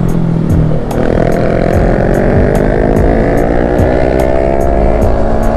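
Yamaha MT-03 parallel-twin engine under way, heard from the rider's seat. Just before a second in the note breaks and drops as the rider shifts up a gear, then the engine pitch rises steadily as the bike accelerates.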